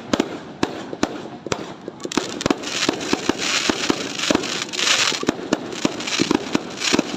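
Fireworks going off in quick succession: many sharp bangs, with a dense crackling hiss building up from about two seconds in.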